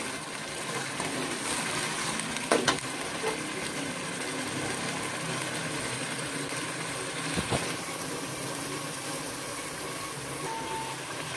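Onion paste sizzling steadily as it fries in hot oil, being cooked down toward light golden brown until the oil separates. Two short sharp knocks, one a couple of seconds in and one about two-thirds of the way through.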